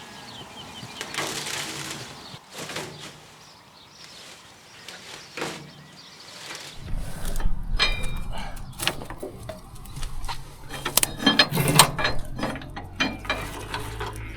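Scattered metallic clicks, clanks and ratchet-like knocks of hand work on machinery, growing busier and louder in the second half. A low steady hum sets in about halfway through.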